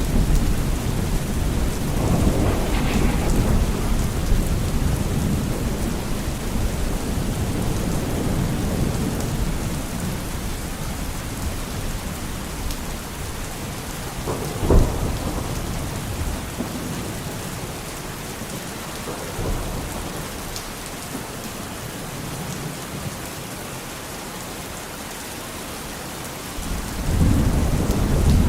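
Steady rain with thunder. A low rumble dies away over the first stretch, a sharp thunderclap cracks about halfway through, and another rumble builds near the end.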